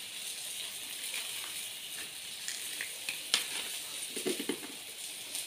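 A child chewing a crispy fried pumpkin-flower fritter: a few faint crunchy clicks over a steady background hiss, with a brief hum of a voice about four seconds in.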